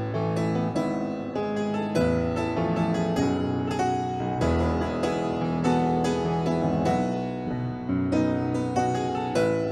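Keyboard instrument playing a piece of music, with notes and chords struck every half second or so over low bass notes.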